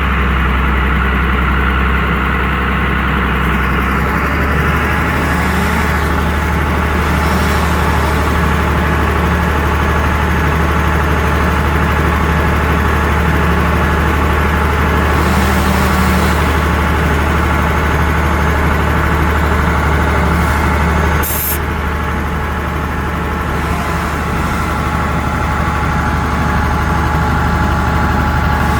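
Bucket truck's engine running steadily at idle, a constant low hum. A sharp click comes about twenty-one seconds in, and the sound is slightly quieter after it.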